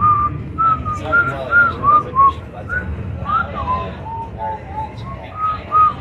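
A person whistling a tune: a quick run of short, clear notes that step up and down, some sliding up, over a steady low rumble.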